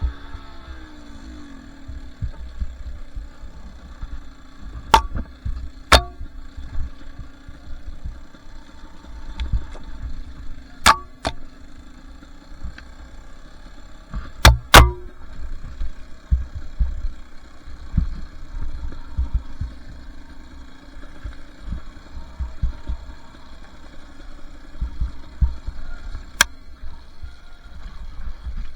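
Two-stroke dirt bike engine running at low, fairly steady throttle under low rumbling, broken by several sharp knocks. The loudest are a pair about fourteen and a half seconds in.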